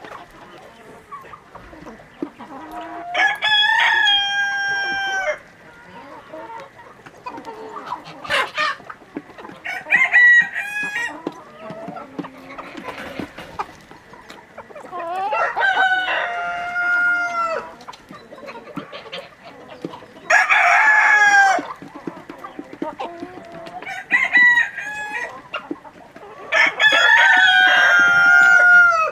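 Rooster crowing about six times, each crow a second or two long and falling in pitch at the end, with quieter chicken clucking between the crows.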